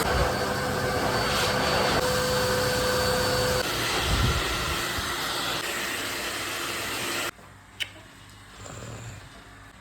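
A small electric appliance motor running with a steady rushing whirr. A steady whine is in it for the first few seconds, and the whole sound cuts off abruptly about seven seconds in. A few faint clicks follow.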